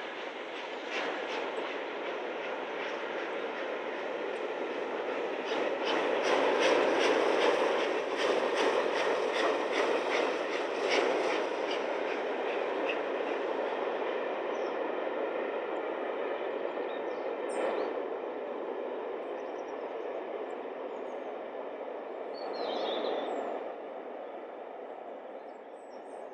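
Steam-hauled passenger train passing behind LNER Peppercorn A1 Pacific 60163 Tornado, its wheels clattering in a steady run of beats over the rail joints. The clatter is loudest about a quarter of the way in, then eases off, with brief high wheel squeals later on.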